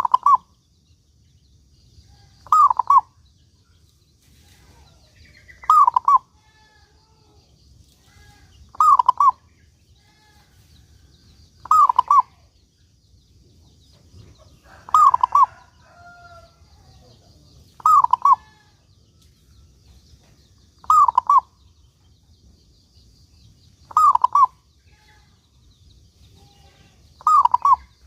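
Zebra dove (perkutut) cooing: a short phrase of falling notes, repeated about every three seconds, ten times in all, with a faint high chirping in the background.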